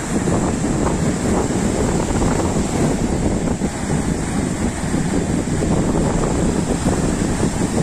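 Wind gusting on the microphone over the steady wash of sea surf.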